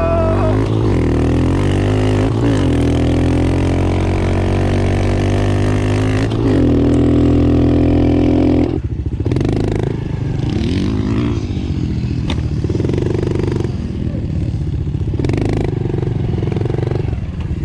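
Kawasaki KX250 four-stroke dirt bike engine under way, its revs climbing, dipping briefly at gear changes and holding high, then dropping sharply about nine seconds in before rising and falling again in shorter bursts of throttle.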